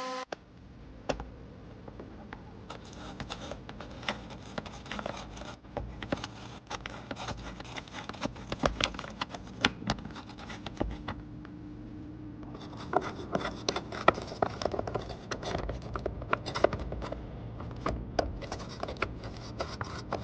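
Close-up scratching, rubbing and irregular clicking of hands and small detailing tools working on a miniature die-cast toy car, busier in the second half.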